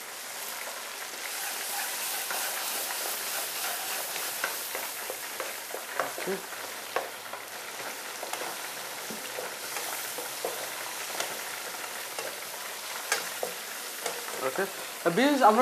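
Onion and spice masala sizzling in hot oil in a nonstick wok while a wooden spatula stirs and scrapes it, with scattered light taps of the spatula against the pan.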